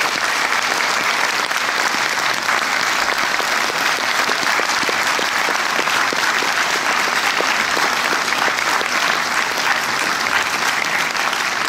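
A cinema audience applauding steadily, a dense patter of many hands clapping.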